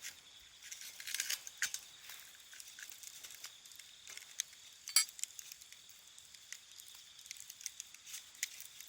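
Wood fire crackling, with irregular sharp pops from the burning firewood; the loudest pop comes about five seconds in.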